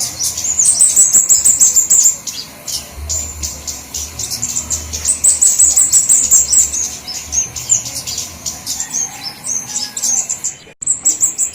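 Flowerpeckers (kemadean / cabe-cabean) calling excitedly: a dense, busy stream of very high, thin, rapid chips and twitters from several birds at once. It is a bird-lure recording meant to draw flowerpeckers in. The sound cuts out for an instant near the end and then carries on.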